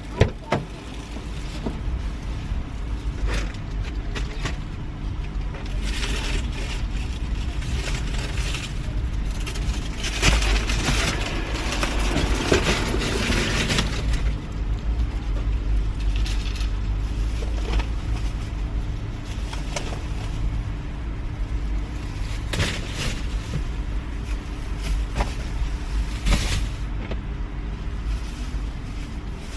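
Steady low rumble of a car being driven, with a stretch of louder noise in the middle.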